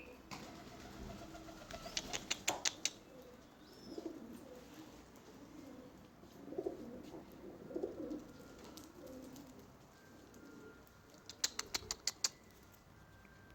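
A bird's low calls, heard a few times, with two quick runs of five or six sharp taps or clicks, one about two seconds in and one near the end.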